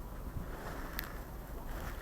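Wind buffeting a body camera's microphone, a steady low rumble, with one short click about a second in.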